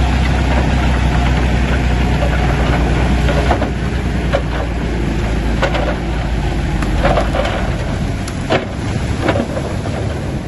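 Shantui bulldozer's diesel engine running under load, with a string of sharp clanks and knocks, such as stone and metal striking, from about three and a half seconds in.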